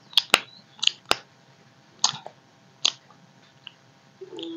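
Mukbang eating sounds of rice eaten by hand: scattered wet smacks and clicks of chewing and lips, about one or two a second. Near the end a low steady hum begins.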